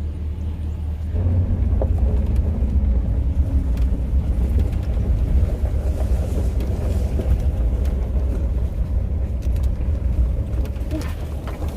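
Farm tractor engine running under load as it pushes a dead dump truck, a steady low rumble that gets louder about a second in.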